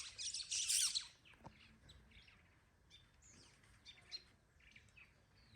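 Birds chirping, with a dense run of calls in the first second, then scattered, quieter chirps.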